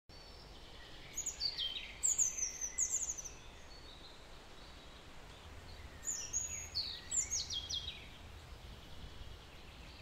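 Small bird singing: two bouts of quick high notes, each sliding down in pitch, the first about a second in and the second around six seconds in, over a faint steady low background rumble.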